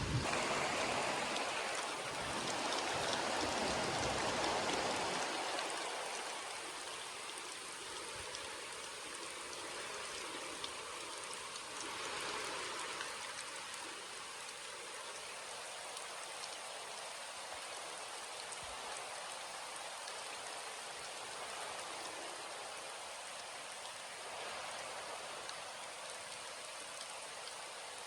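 Steady heavy rain falling. A low rumble of thunder dies away over the first five seconds.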